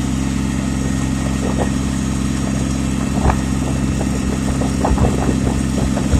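Yanmar tractor's diesel engine running at a steady speed, with a few light knocks along the way.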